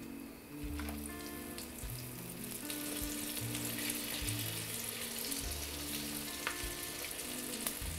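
Battered chicken pieces deep-frying in hot oil on high heat, in the second fry of a double-fry for crispness: a steady sizzle with scattered crackles and pops as steam bursts out of the meat.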